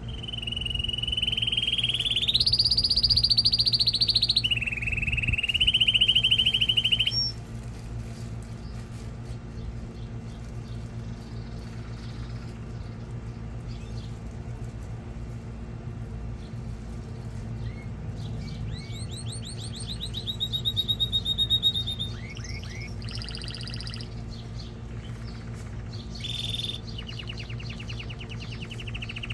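Male canary singing in fast rattling trills, some held on one pitch and some sliding upward, in two spells with a quieter stretch between them.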